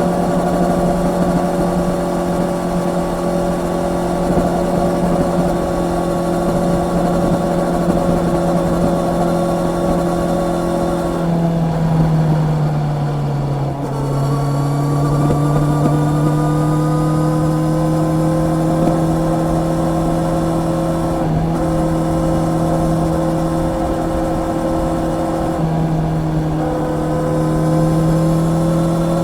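Honda CB650R's 649 cc inline-four engine running under way at a steady, moderate pitch. The note drops about twelve seconds in, then climbs slowly as the bike picks up speed again, with short breaks in the note near 21 and 26 seconds.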